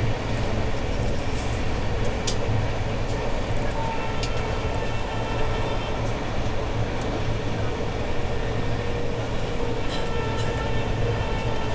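Shatabdi Express passenger train running at speed, heard from on board: a steady rumble of wheels on the track with a few sharp clicks.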